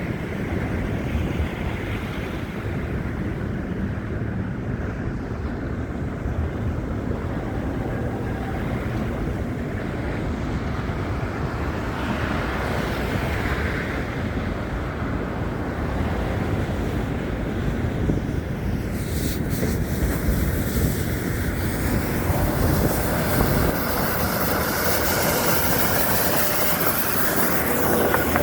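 Steady outdoor rumble of wind and traffic. It grows louder and hissier about two-thirds of the way through, with faint rising and falling whines near the end.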